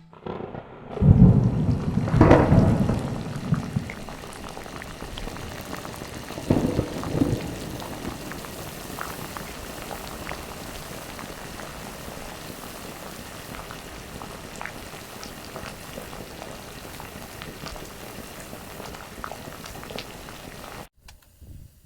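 Volcanic eruption sound: deep rumbling booms in the first few seconds and again around seven seconds in, then a steady crackling hiss that cuts off suddenly near the end.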